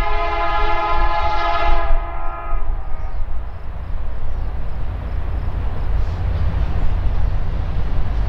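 Freight train's diesel locomotive air horn sounding a chord of several tones that cuts off about two to three seconds in, followed by the steady low rumble of the approaching locomotives.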